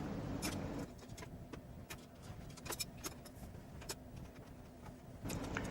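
Faint steady low hum with a scatter of light clicks and taps.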